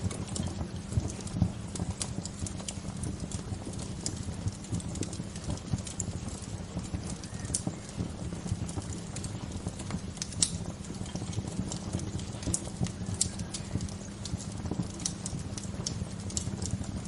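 Wood bonfire crackling, with irregular sharp pops and snaps over a steady low rush.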